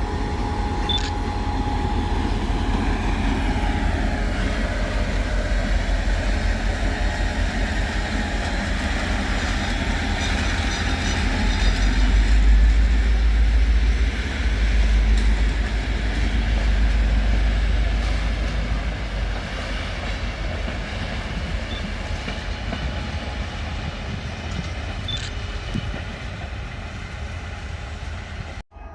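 Freight train passing, a heavy low rumble with the clatter of wagons that grows loudest around the middle and then slowly fades. It cuts off abruptly near the end.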